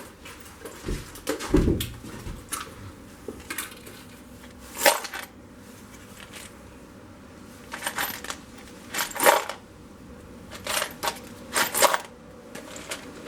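Metal parts and tools clinking and knocking while being handled and test-fitted on a motorcycle engine, in irregular separate clanks with short ringing tails and quiet gaps between.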